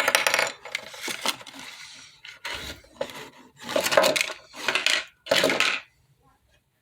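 Plastic blister packaging and cardboard of a die-cast toy monster truck being handled: a run of crinkles, clicks and small rattles in several short bursts that stop about six seconds in.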